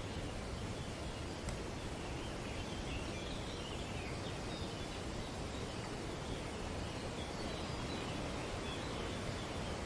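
Wind rushing steadily through leafy trees, with faint bird chatter high above it through the middle of the stretch.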